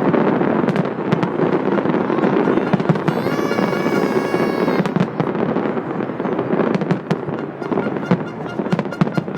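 Aerial fireworks display: a dense, continuous crackle with many sharp bangs going off in quick succession. A held, steady pitched tone sounds for about a second and a half, starting about three seconds in.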